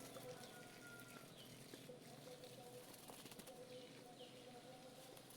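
Faint bird chirps: two short falling calls a few seconds apart, over faint steady background tones and hiss.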